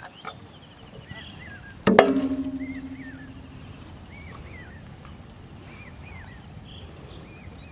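A single sharp knock about two seconds in, followed by a low ringing tone that fades over about a second and a half. Short chirping calls repeat throughout, with a rapid trill near the start.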